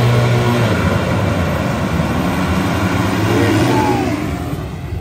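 Motocross dirt bike engines running and revving, their pitch shifting, with a short falling whine a little before the end.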